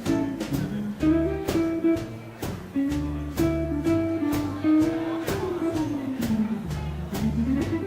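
Live swing band playing a slow ballad without vocals: a held melody line over bass notes and light drum strikes about twice a second. The melody slides down about five seconds in and climbs again near the end.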